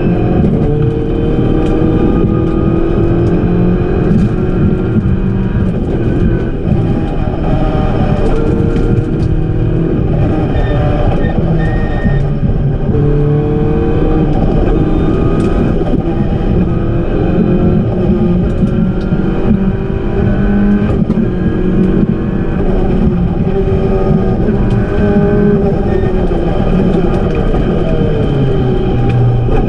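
Renault Clio 172 Cup rally car's 2.0-litre four-cylinder engine, heard from inside the cabin, driven hard. The revs climb and drop back again and again through gear changes and lifts, over loud tyre and road noise.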